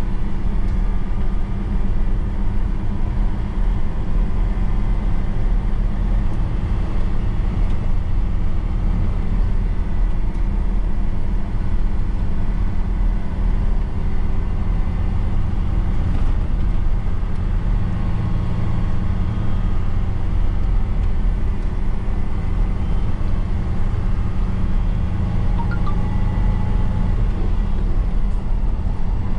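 Truck engine running steadily under way, a constant low hum with road and tyre noise.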